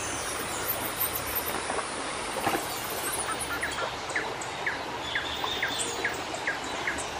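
Birds calling over a steady background hiss. From about four seconds in, one bird repeats a short chirp about twice a second.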